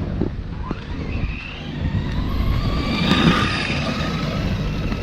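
Electric RC truck's motor whining as it speeds up toward a jump, the whine rising in pitch and loudest about three seconds in.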